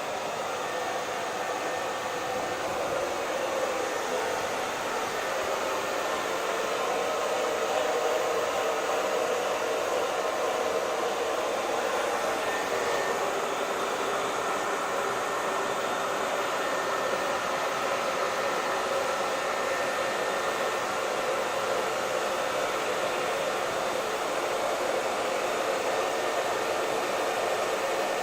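Hair dryer running steadily: an even rush of blown air with a few faint steady tones from the motor.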